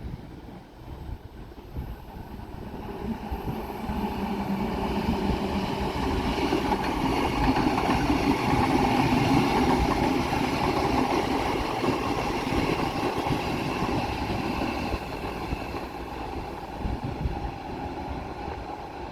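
A train passing by, its rolling noise swelling to a peak about halfway through and then fading, with wind buffeting the microphone.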